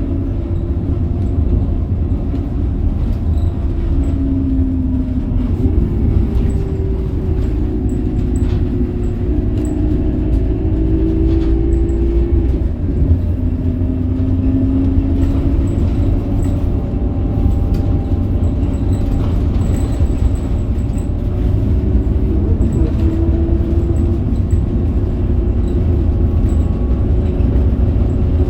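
2008 Scania K270UB city bus on the move, its Scania DC9 five-cylinder diesel engine running with a deep, steady rumble. A whine from the engine and gearbox steps up and down in pitch several times.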